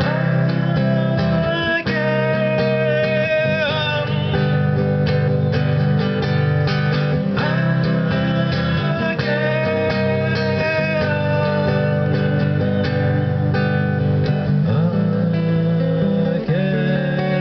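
Acoustic guitar playing an instrumental break between verses of a slow song, with a sustained melody line held over the strummed chords.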